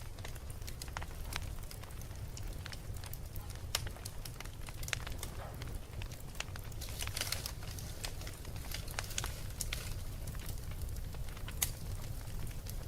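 Wood fire crackling: irregular sharp pops and snaps over a steady low rumble, busiest around seven seconds in, with one sharp pop near the end.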